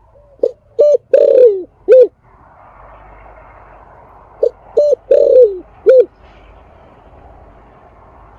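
Spotted dove cooing: two identical phrases about four seconds apart, each of two short coos, then a longer coo that falls in pitch, then one more short coo. A faint hiss lies underneath.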